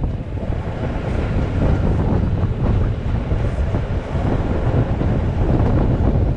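Moving Rhaetian Railway ABe 8/12 electric train running downhill, a steady rumble of wheels on rails mixed with wind buffeting the microphone at an open window.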